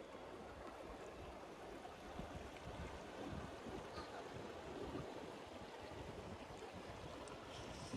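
River water flowing, a steady rushing noise that swells and eases a little.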